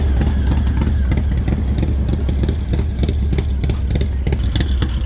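Harley-Davidson V-twin motorcycle engine idling: a steady, deep rumble with a rapid, uneven clatter over it.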